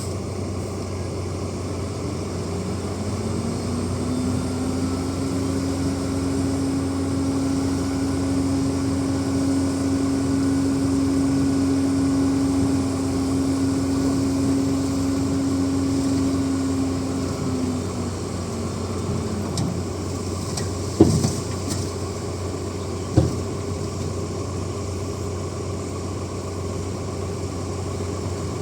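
Bulldozer's diesel engine running, its pitch rising a couple of seconds in and holding higher for about fifteen seconds before dropping back. Two sharp knocks follow, about two seconds apart, near the end.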